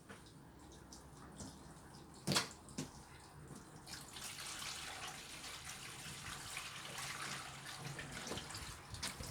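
Water running from a tap in a steady, fairly quiet hiss that starts about four seconds in, after a single knock, as a jug is filled for topping up a washing machine.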